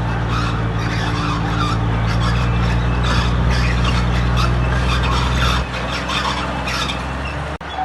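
Heavy diesel earthmoving machinery running steadily under load, its deep engine hum mixed with rough scraping and squeaking noise. The deep engine note drops away about five and a half seconds in, and the sound cuts out for an instant near the end.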